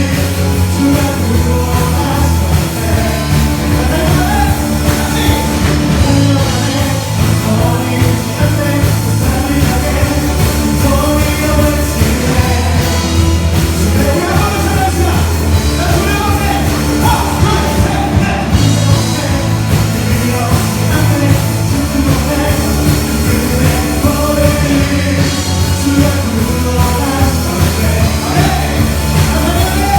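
A live praise band playing a worship song with group singing, over a full band and a steady bass line.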